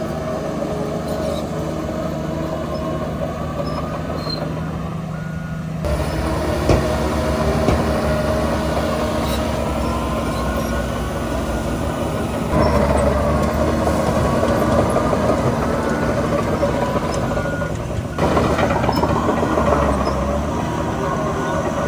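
Heavy diesel earthmoving machinery running steadily. The engine grows louder under load at about six seconds in, again near the middle and again near the end, with faint whining glides over the engine.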